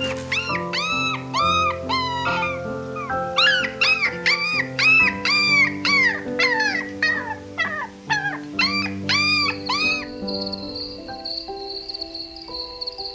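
An animal's short, high-pitched cries, each rising then falling, about two a second, over background music; the cries stop about ten seconds in and a steady high trill like crickets takes over.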